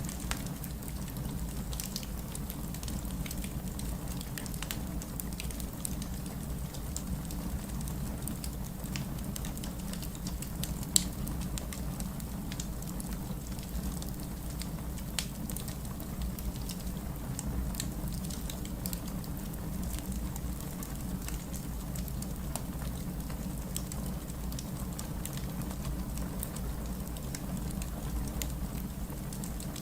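Steady heavy rain with a low rumble, under a crackling wood fire that gives scattered small pops and one sharper pop about eleven seconds in.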